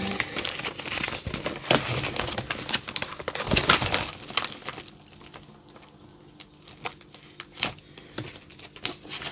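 Plastic stamp packaging crinkling and rustling as it is handled. The sound is dense for the first four seconds or so, then drops to a few scattered clicks and taps.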